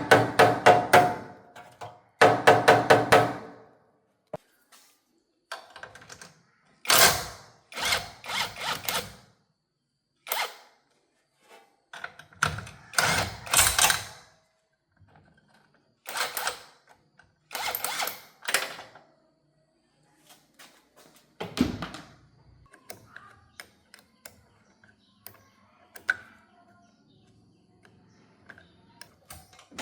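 Clunks and knocks of car parts and tools being handled during disassembly. A quick run of ringing strikes, about six a second, comes in the first few seconds, followed by scattered single clunks and thuds.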